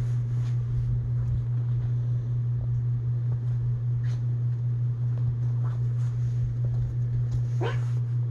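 A steady low hum with some rumble beneath it. A few faint, brief sounds rise over it, one short rising squeak near the end.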